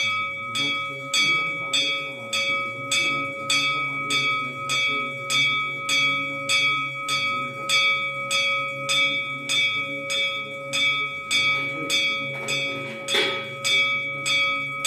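A bell struck over and over at an even pace, about two strikes a second, its ringing tone carrying on between strikes. A low steady hum lies underneath, and there is a short rustling burst near the end.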